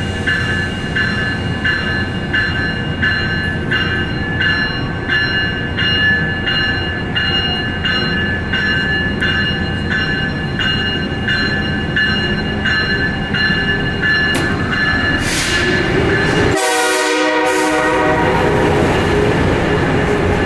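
Amtrak Acela Express trainset departing: its bell rings steadily about one and a half times a second for the first fourteen seconds or so. A short horn blast follows about sixteen seconds in, then the rising sound of the train gathering speed past the platform.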